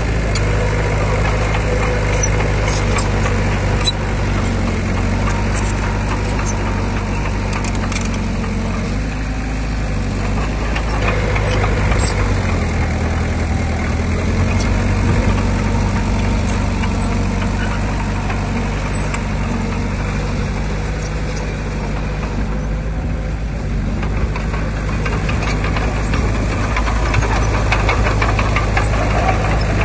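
Heavy diesel engine of earthmoving machinery running steadily, its pitch shifting a little partway through, with scattered metallic clicks and clanks in the first half.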